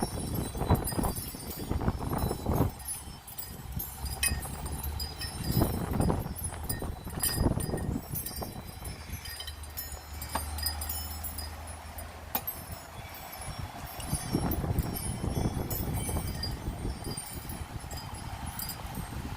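Gusts of storm wind buffeting the microphone in irregular swells, with wind chimes tinkling over them.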